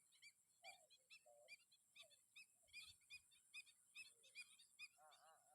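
A large flock of mixed birds calling faintly, a dense run of short, high chirps several a second, with a few lower calls mixed in and a brief lower burst of calls near the end.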